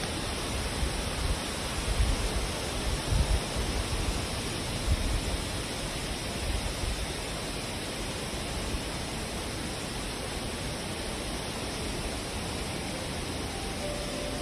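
Wind blowing steadily, a constant rush with gusts buffeting the microphone as low rumbles during the first half.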